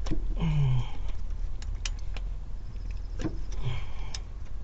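Several sharp metallic clicks and clinks of hand tools on engine bolts, spaced irregularly over a steady low rumble, with a couple of short grunts.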